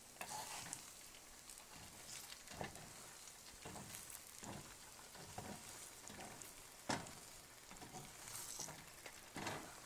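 Eggs and spinach sizzling quietly in a frying pan, with a spatula scraping and knocking against the pan now and then; the sharpest knock comes about seven seconds in.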